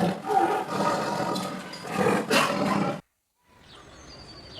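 Tiger roaring and growling in several rough, throaty pulses, cutting off abruptly about three seconds in. After a brief silence comes a faint outdoor background with a few thin high chirps.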